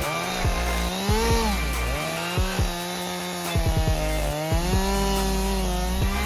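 Chainsaw running at high speed while felling trees, its pitch dipping and recovering a few times as the chain loads up in the wood.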